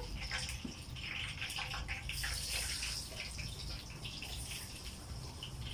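Breaded chicken cutlets (panné) sizzling and crackling in hot frying oil, a fresh batch just laid in the pan.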